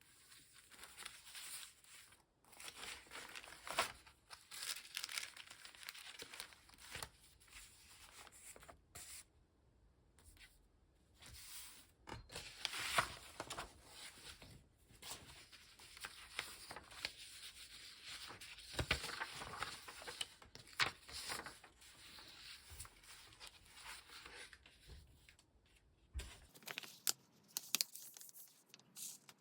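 Paper being torn and rustled by hand in irregular bursts, with a few sharp taps.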